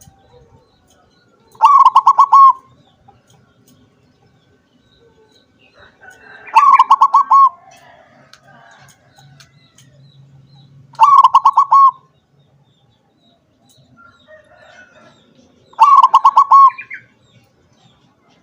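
Zebra dove (perkutut) singing: four cooing song phrases, each about a second long of quick repeated notes, coming every four to five seconds.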